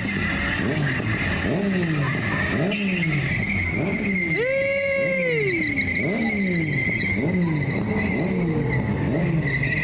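A car doing a burnout: its tyres squeal steadily against the pavement while the engine revs in repeated surges, its pitch falling and jumping back about once a second. About four to five seconds in, a louder, higher whine briefly rises and falls over the top.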